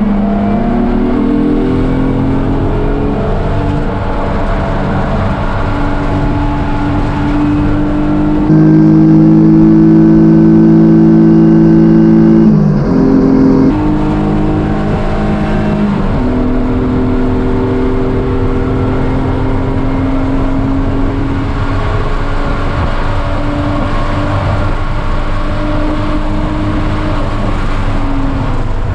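1995 BMW E36 M3's straight-six engine running hard under load, heard from inside the stripped race car's cabin. Its pitch rises and falls with the revs, with a louder, higher-revving stretch about a third of the way in that drops back sharply.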